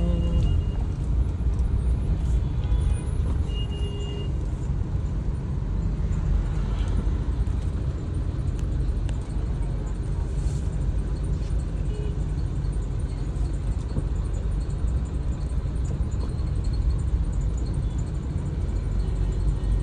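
Steady low rumble of road traffic and car engine noise in a slow city traffic jam. A few faint short tones come in the first four seconds.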